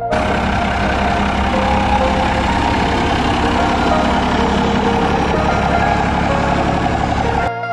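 A diesel pickup truck's engine running loud and steady; the sound starts and stops abruptly.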